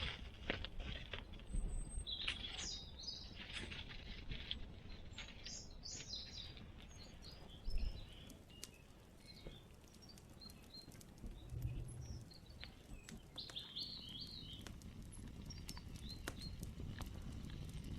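Small songbirds chirping on and off in woodland. There are rustling, handling noises in the first few seconds and a single soft thump about eight seconds in.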